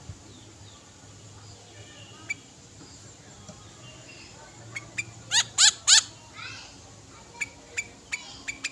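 Sooty-headed bulbul calling: scattered short chirps, then three loud notes in quick succession a little past the middle, followed by several sharp chirps near the end.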